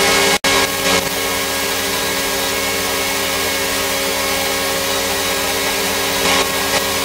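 An electric power tool's motor running steadily with a loud hissing rush, cut by a brief break about half a second in.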